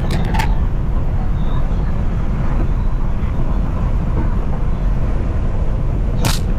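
Exhaust of a BMW 335i's N55 turbocharged inline-six, heard through an exhaust-mounted microphone while driving: a steady low drone. A few quick crackles come at the very start and one sharp crack near the end.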